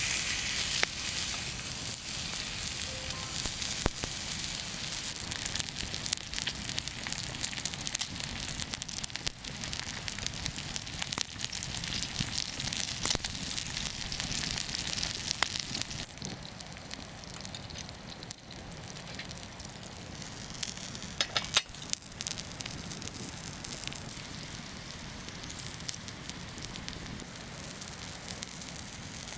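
Thick steak sizzling as it cooks over a campfire. The sizzle is loudest in the first half and quieter after about halfway, with a few sharp crackling pops a little past two-thirds of the way through.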